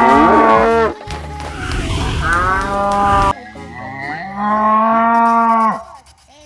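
Cow mooing: three long moos, the first already under way at the start, the next about two seconds in and the last about four and a half seconds in.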